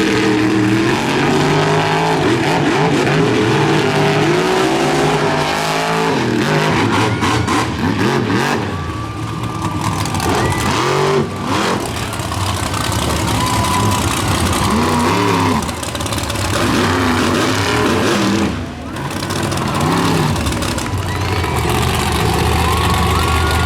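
Monster truck engines running loud and revving, the pitch rising and falling.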